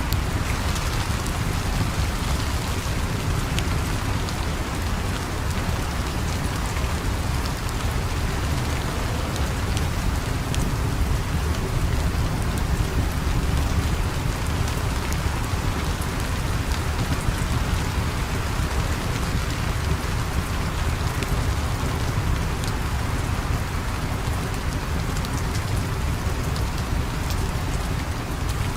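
Steady rain falling, an even hiss of drops with scattered faint ticks and no change in strength.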